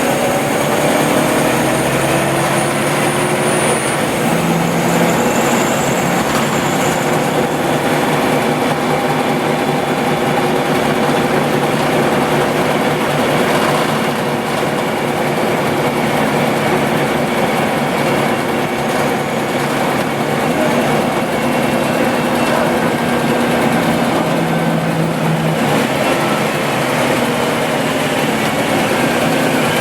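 Scania OmniLink CL94UB city bus running, with its engine and drivetrain whine rising and falling in pitch as the bus speeds up and slows. A high whine climbs and holds for about four seconds at the start.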